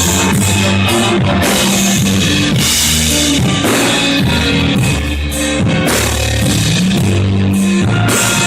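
Instrumental passage of a Christian rock song: a drum kit keeps a steady beat under guitar and bass, with no singing.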